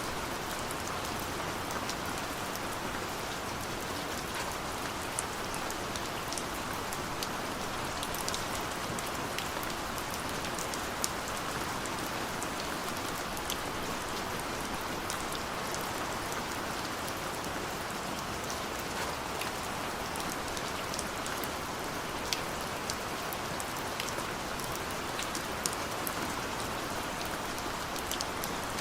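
Steady rain falling on a surface, a constant hiss with many sharp, distinct drops ticking through it.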